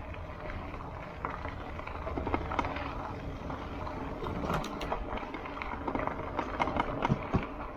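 Footsteps of a person walking on a trail, with irregular crunches and clicks over a steady low rumble.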